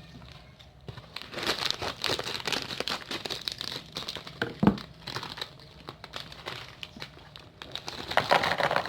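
Crinkly plastic snack bag rustling and crackling irregularly as it is handled and opened by hand.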